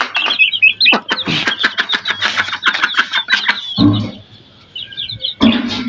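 Baby chicks peeping in quick, high chirps, over a dense run of sharp clicks and rustling in the first half. Two low thumps, one about four seconds in and one near the end.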